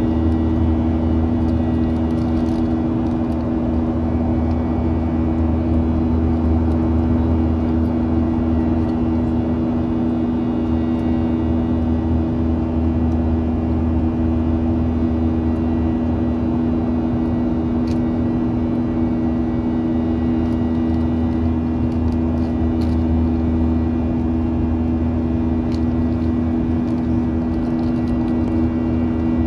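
Boeing 737-800 cabin noise heard from inside the cabin: the CFM56-7B jet engines running at a steady setting, a low rumble with a steady hum over it and no change in pitch.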